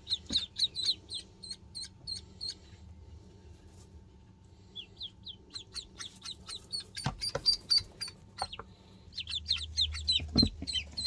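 Several ducklings peeping: short, high chirps in quick runs, with a lull of about two seconds near the middle. A few soft knocks come in the second half.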